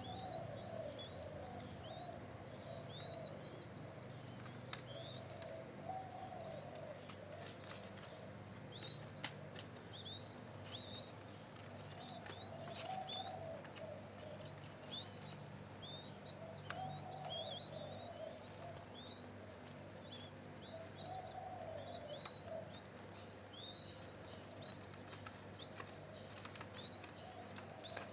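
Spotted doves cooing, a low rolling phrase repeated every few seconds, over another bird's high rising chirps about once a second and a few scattered clicks.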